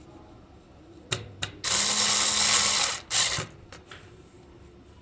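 A small motor runs in a short burst of a little over a second, a hiss with a steady low hum, with a few sharp clicks before it and a shorter burst and a click after.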